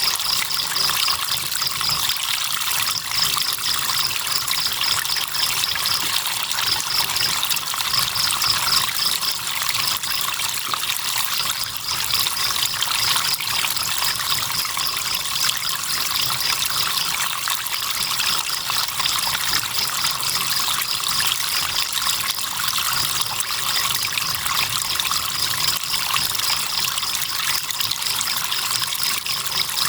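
River water trickling steadily, with crickets chirping in a high, rapidly pulsed trill that breaks off briefly every few seconds.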